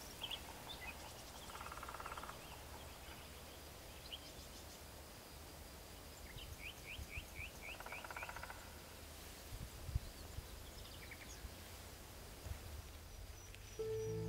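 Small birds calling faintly: scattered short high chirps, a quick run of about six chirps near the middle, and two brief buzzy rattles. Soft music comes in at the very end.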